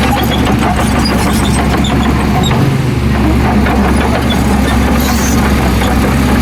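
Heavy diesel earthmoving machinery engine running steadily and loudly, with scattered small clicks and knocks over it.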